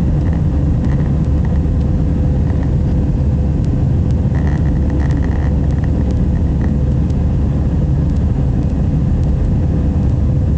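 Airbus A320 cabin noise in the climb after takeoff: a loud, steady low rumble of the engines and airflow, with a steady hum running through it.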